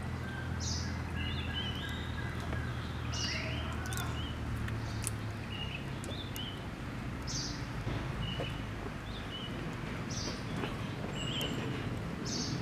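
Birds chirping in short repeated calls every couple of seconds over steady outdoor background noise, with a low hum that stops about five seconds in.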